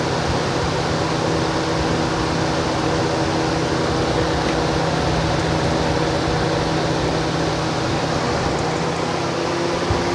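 Lasko B20200 box fan with a broken blade running: a steady rush of air over a motor hum. The fan is badly out of balance from the broken blade.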